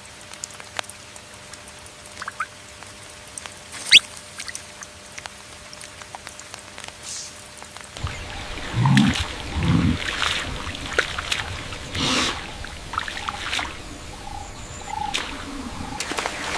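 Water splashing and dripping, with scattered sharp ticks, growing busier about halfway through with a few low thumps.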